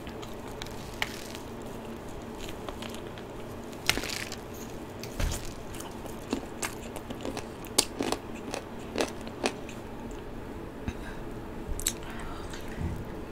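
Close-miked crunching and chewing of crispy cheese-powdered fried chicken (BHC Bburinkle): irregular crisp crunches every half second to second over a steady low hiss.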